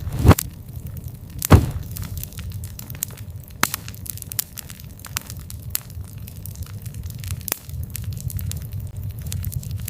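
Wood campfire crackling, with a steady low rumble of flame and many sharp pops, two of them loud, shortly after the start and about a second and a half in.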